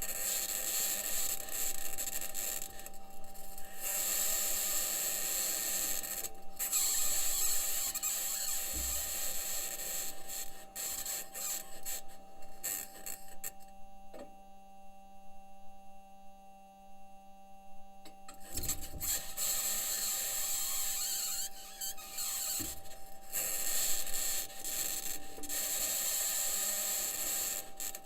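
Continuous scraping, grinding mechanical noise with a steady high tone and a lower hum running through it. A few low thumps are heard, and most of the noise drops away for about five seconds in the middle.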